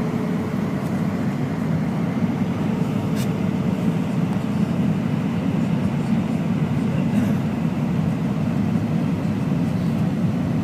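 Airbus A319 airliner in flight: the steady low roar of its engines and rushing air, unchanging throughout, with a faint steady hum in the first half.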